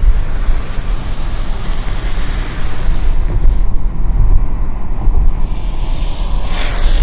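Wind buffeting the microphone, a heavy uneven rumble over road traffic noise. A brief loud whoosh near the end, like a vehicle passing close by.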